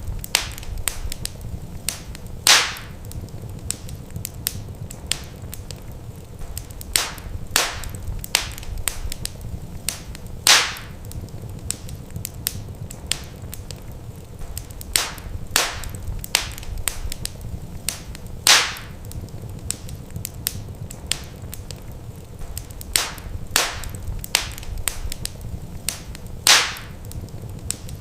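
Wood fire crackling in a fireplace: a constant scatter of small sharp snaps over a low steady rumble, with a louder pop about every eight seconds.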